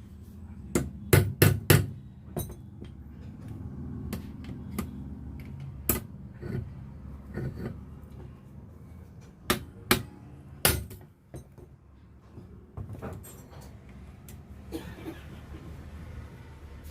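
Sharp knocks and taps from tools working on an alternator as it is dismantled: a quick run of four about a second in, then single knocks every few seconds.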